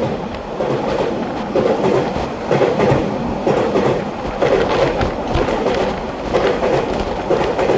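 EMU3000 twelve-car electric multiple unit running past the platform, its wheels clacking over the rail joints in a steady rhythm of about one surge a second.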